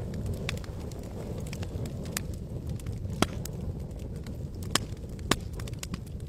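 Campfire burning: irregular sharp crackles and pops from the burning wood over a low steady rumble, with the loudest pops a little after three seconds and twice near five seconds.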